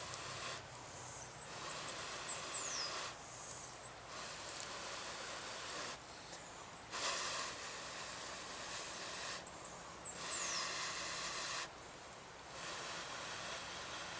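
Long, hissing breaths blown into a smoking tinder bundle, about five blows with short pauses between, to coax a bamboo friction-fire ember into flame.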